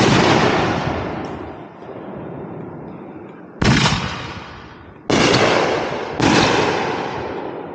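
Aerial firework shells bursting overhead: a loud bang right at the start, then three more about three and a half, five and six seconds in, each followed by a long fading rumble.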